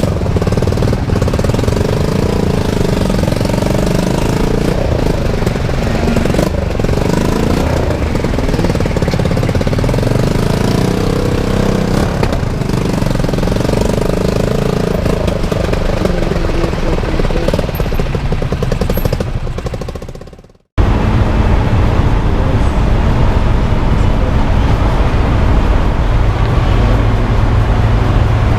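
A motorcycle engine running steadily while riding. The sound fades out about two-thirds of the way through and cuts back in abruptly.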